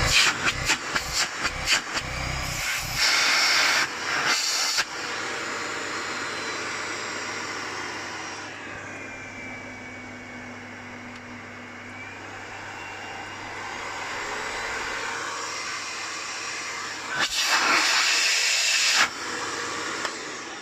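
Miele Complete C3 PowerLine vacuum cleaner running, a steady rush of air over a motor hum. The sound grows louder in two short stretches and, in the middle, drops and dulls for several seconds before rising back.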